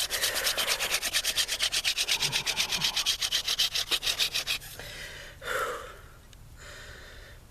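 Hand drill friction-fire set, a horseweed spindle spun between the palms in a willow hearthboard, giving a rapid rhythmic wooden rasping of about ten strokes a second. The drilling stops about four and a half seconds in, followed by a short exhale.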